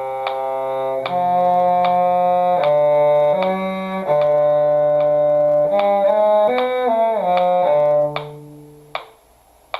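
Cello playing a slow, smooth melodic line of held bowed notes, one note after another. The line stops about eight seconds in and rings away, followed by a couple of small clicks.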